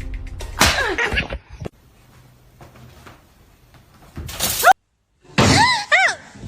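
Cat vocalising in short separate calls: a falling meow just after the start, a brief rising cry around four seconds in, and two short arching meows near the end.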